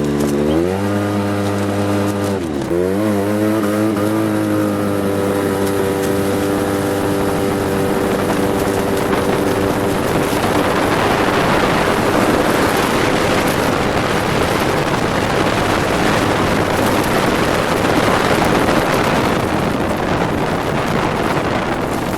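Ford F-150 pickup engine revving up twice in the first few seconds, then running at a steady pitch as the truck drives. From about ten seconds in, a loud rushing noise builds up and largely covers the engine.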